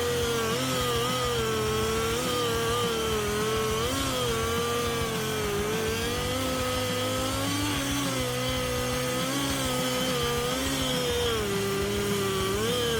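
Chainsaw running steadily at high speed, its whine wavering slightly in pitch.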